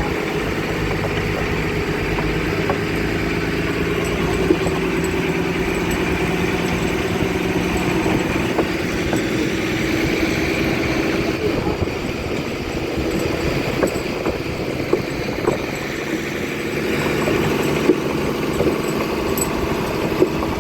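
Fishing boat's engine running steadily at low revs, with a few sharp knocks here and there.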